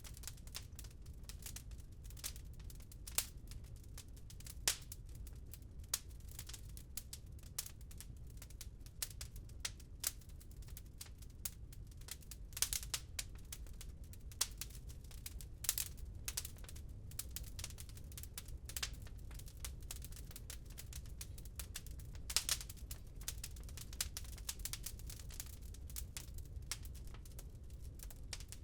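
Wood fire crackling in a fireplace: irregular sharp pops and snaps, a few louder ones about 13, 16 and 22 seconds in, over a steady low rumble.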